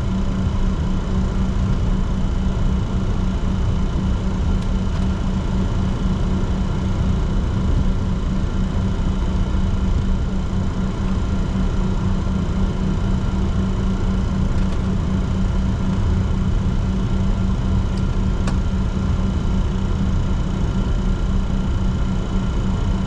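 Steady cockpit noise of a Bombardier Challenger 604 taxiing: a constant deep hum from its idling engines and cockpit air systems, with a few thin steady tones over it and one faint click late on.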